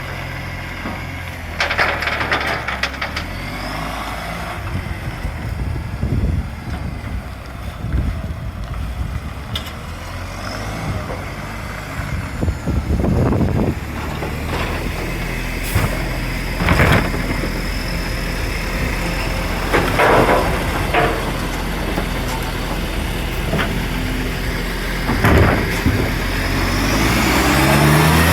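Recycling garbage truck's diesel engine running with an exhaust leak, a steady low drone broken by several loud, short noisy bursts and clanks, and revving up near the end.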